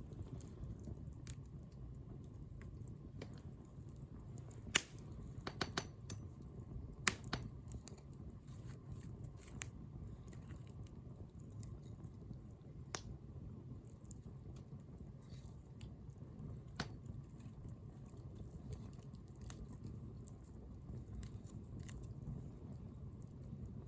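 Wood bonfire crackling: scattered sharp pops and snaps, two louder ones about five and seven seconds in, over a low steady rumble.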